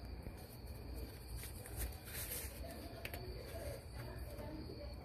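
Quiet background in which a bird coos faintly several times, with a few faint light clicks.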